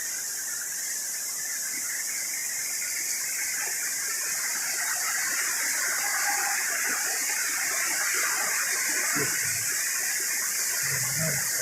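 Heavy rain pouring down steadily in a rainstorm, a continuous even hiss that grows slightly louder a few seconds in.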